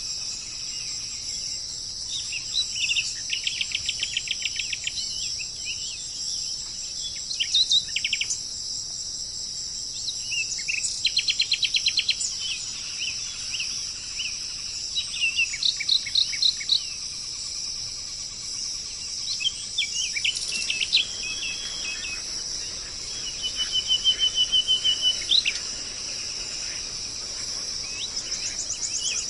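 Songbirds singing, in short phrases of quickly repeated notes and trills every few seconds, over a steady high-pitched hiss.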